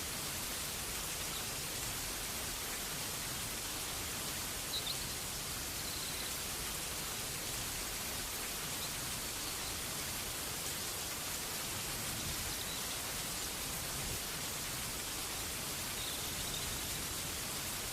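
Steady rain falling, an even dense hiss with no breaks.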